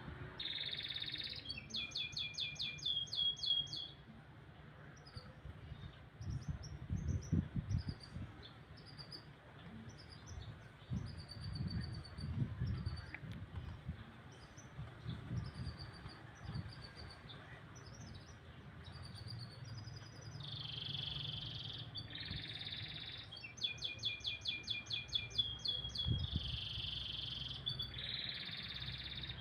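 Domestic canary singing: fast rolling trills of rapidly repeated high notes, with short chirps and pauses between phrases, over a low background rumble.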